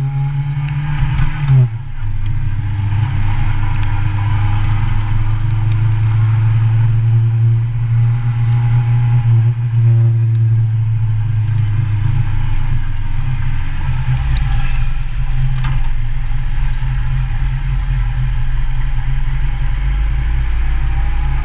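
Motorcycle engine running while riding, heard from a camera mounted on the bike. The engine note falls and briefly breaks about two seconds in, then runs fairly steady, with a deeper rumble joining about two-thirds of the way through.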